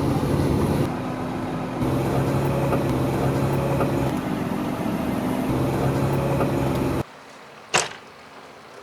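Supercharged V8 engine of a 700 hp Shelby F150 pickup running at steady revs. The sound jumps abruptly about one and two seconds in and cuts off suddenly about seven seconds in, leaving a much quieter background.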